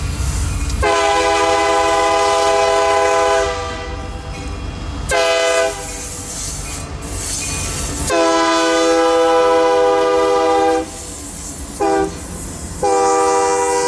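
Diesel locomotive's multi-note air horn, most likely on a Union Pacific SD60M, sounding a series of blasts: three long ones with two short ones between them, the last still sounding at the end. A low engine rumble runs under the first half.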